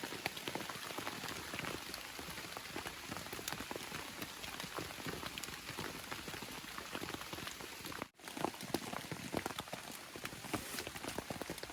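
Steady rain: a dense patter of raindrops landing on a surface, with a brief gap about eight seconds in where the recording cuts.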